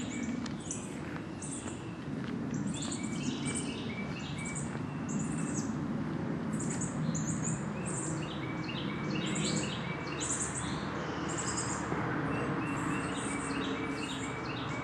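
Small birds chirping, short high calls repeating several times a second, over a low steady rumble.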